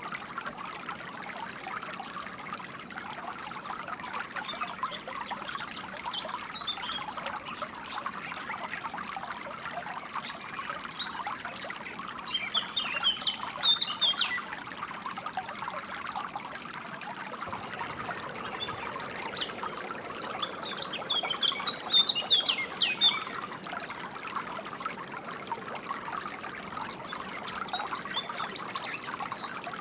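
Water trickling and splashing steadily over stones, with small birds chirping in short bursts now and then, most clearly in flurries around a third of the way in and about two-thirds of the way in.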